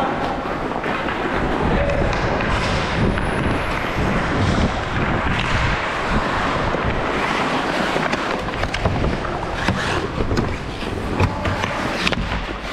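Game play on a rink: a steady scraping, rolling noise with many sharp clacks and knocks from sticks and hits against the boards, scattered irregularly throughout.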